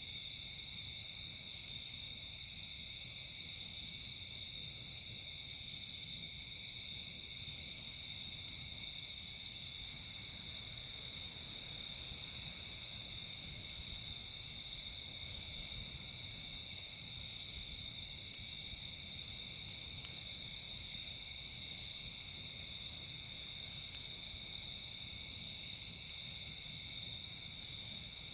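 Steady chorus of night insects such as crickets, a continuous high trilling. A higher-pitched insect calls in on-and-off bouts of a few seconds above it, and a few faint pops from a crackling campfire come through.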